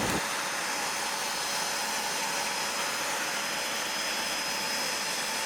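Agaro Rapid wet and dry vacuum cleaner running steadily at its single fixed suction power, a level whooshing hiss of air through the hose and floor extension.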